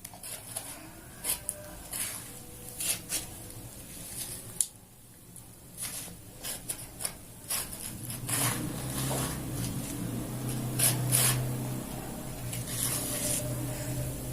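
Dry sand being scooped and poured into a toy truck's plastic bed, in irregular rustling, scraping bursts. From about eight seconds in, a steady low hum runs underneath.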